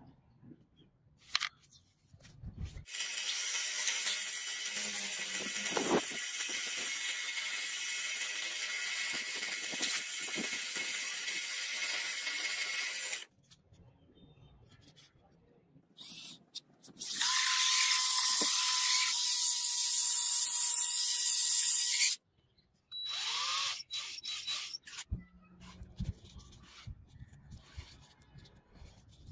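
A small power tool running in two spells: about ten seconds of steady high-pitched buzzing, then after a pause a louder burst of about five seconds with a steady whine, followed by light handling clatter.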